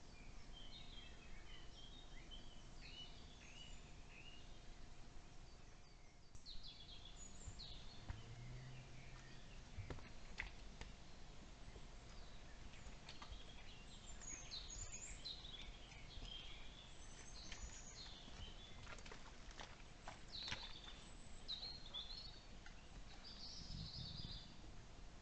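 Faint birdsong in woodland: many short high chirps and calls from several small birds, scattered throughout, over a low background hiss, with a few soft clicks.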